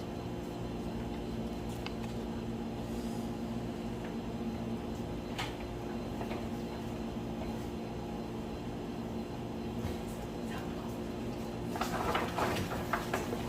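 Steady low hum in a small room, with a couple of faint clicks, then a burst of handling noise and rustling near the end.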